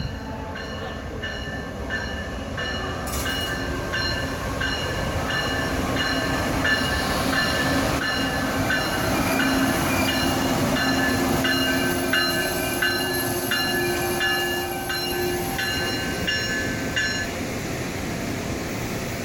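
Amtrak passenger train rolling into the station and slowing to a stop behind its electric locomotive, a steady rail rumble with a low whine. A high ringing note repeats steadily and stops near the end, as the train comes to rest.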